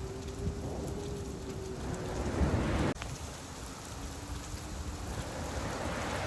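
Steady rain falling, with a low rumble and a faint steady hum underneath. A rushing swell builds and cuts off suddenly about three seconds in, and another builds near the end.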